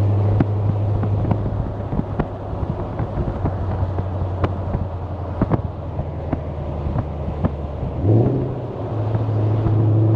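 Ford Mustang's 5.0 Coyote V8 exhaust: a steady drone, then off the throttle with a string of sharp pops and crackles for several seconds. About eight seconds in, the revs jump and it settles back into a steady, louder drone.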